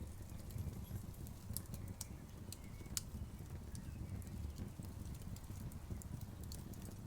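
Campfire crackling, with sharp pops at irregular intervals, the loudest about three seconds in, over the steady low rush of a river.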